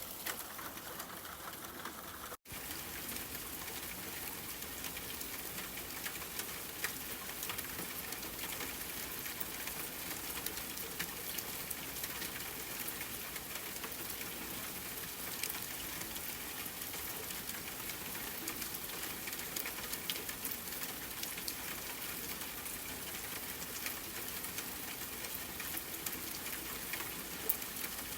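Steady rainfall, an even hiss with scattered faint clicks. The sound cuts out for an instant about two seconds in, then carries on.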